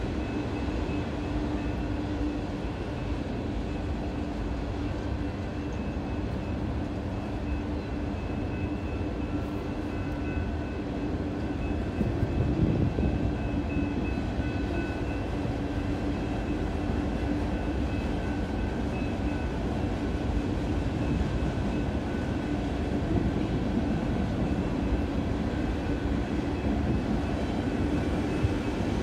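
A long freight train of autorack cars rolling steadily past at a distance, with a continuous rumble of wheels on rail. It gets briefly louder about twelve seconds in.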